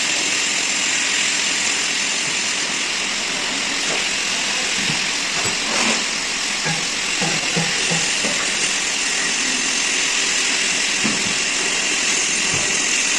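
Metal lathe running steadily, a continuous machine hiss and whir, with a few light knocks in the middle.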